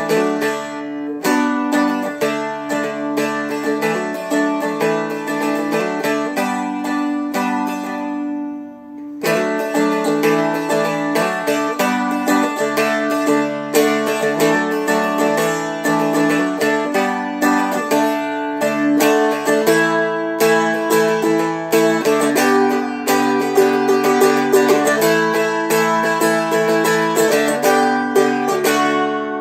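A Seagull Merlin M4, a four-string fretted dulcimer-style instrument, strummed through a chord progression. About eight seconds in, a chord is left to ring and fade before the strumming starts again.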